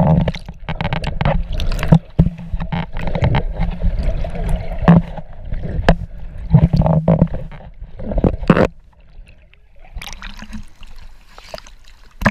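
Boat ride on the water: loud rushing and splashing with repeated knocks. It drops away to quieter water noise about nine seconds in.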